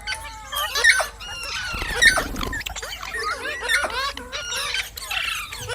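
Pet parrot calling: a rapid string of short squawks and chirps that rise and fall in pitch, with a louder, harsher squawk about two seconds in.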